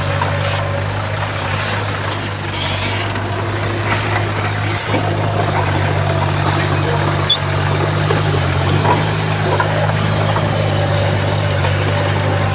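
Diesel engine of heavy earthmoving machinery running steadily at an even low pitch, with a short knock about seven seconds in.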